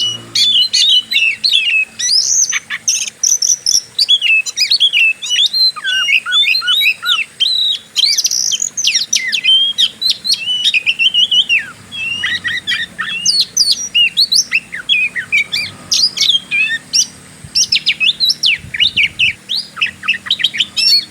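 Oriental magpie-robin (kacer) singing an unbroken, fast stream of varied whistles, chirps and trills in the aggressive 'fighting' style.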